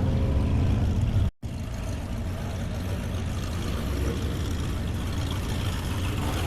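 Car engine running with a steady low rumble. The sound cuts out completely for an instant about a second and a half in.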